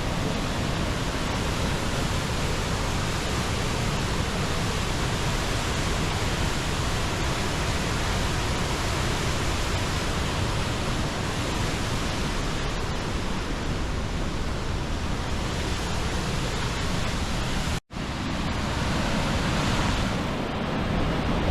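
Athabasca Falls, a large waterfall on the Athabasca River, pouring in a steady, dense rush of water noise. The sound breaks off for a split second about eighteen seconds in, at an edit, then carries on.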